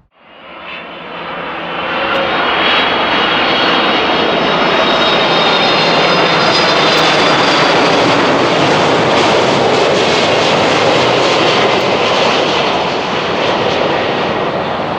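Jet airliner's engines passing close by: a loud roar that swells over the first two seconds and holds, with a high whine on top, easing slightly near the end.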